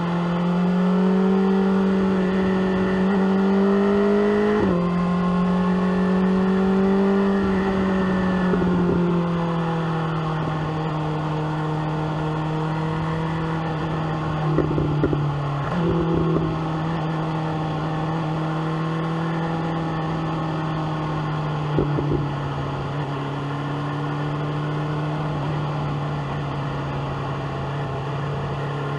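BMW S1000R's inline-four engine through an SC Project exhaust, running under part throttle with its pitch slowly rising and falling. It shifts up with a quick drop in pitch about five seconds in and again around sixteen seconds, with a few short pops around fifteen and twenty-two seconds.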